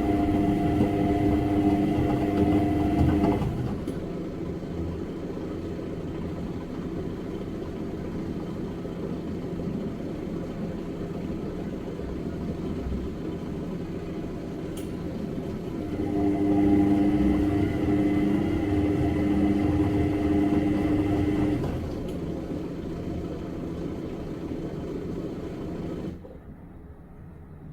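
Washing machine in its wash cycle: the motor hums with a steady whine as it turns the drum, stops about three seconds in, and starts again for about five seconds past the middle, with a softer steady noise between the runs. The softer noise drops away sharply shortly before the end.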